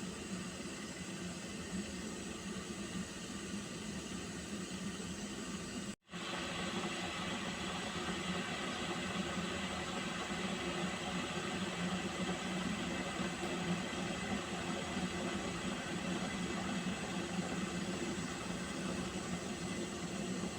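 Pot of water heating towards the boil, giving a steady hiss. It cuts out for an instant about six seconds in, then carries on slightly louder.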